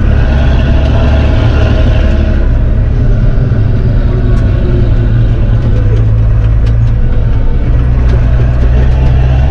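Fendt 926 Favorit Vario tractor's six-cylinder MAN diesel running steadily through an open exhaust pipe, heard from inside the cab as a loud, deep, even drone. A little of the higher hiss eases off about two seconds in.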